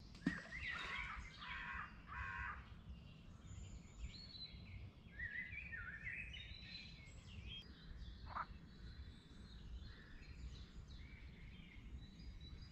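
Several birds singing, their short repeated and stepped whistled phrases overlapping, over a steady low rumble.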